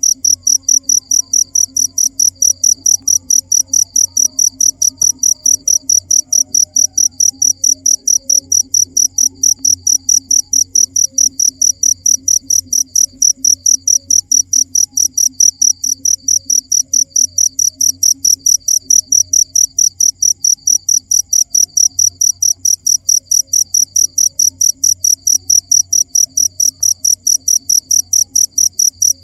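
Cricket chirping in an even, unbroken rhythm of about four high-pitched chirps a second, over a faint low hum.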